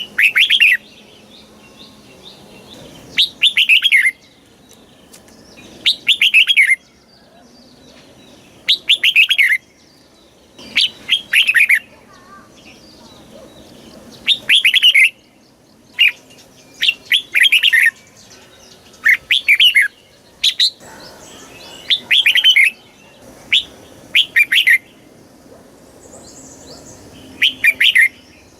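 Red-whiskered bulbul singing in short, quick, warbled phrases of about a second each, repeated every two to three seconds with brief pauses between them.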